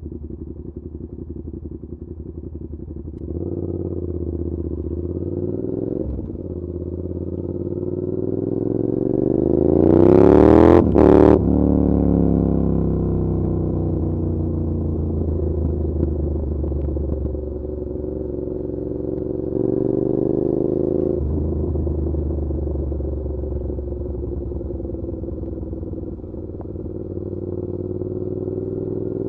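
Suzuki SV650's V-twin through an SC Project exhaust while riding. The engine note steps up, then rises steadily in pitch under acceleration to a peak about ten seconds in, where a brief loud rush of noise breaks in twice. The revs then drop away and climb again around twenty seconds in.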